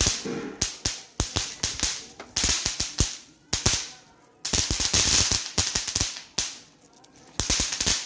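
An eco-friendly ladi, a string of small firecrackers, going off in rapid runs of sharp cracks with short pauses between the runs.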